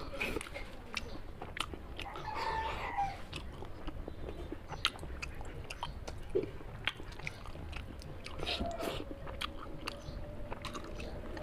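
A person chewing and biting food: a steady run of small, sharp mouth clicks.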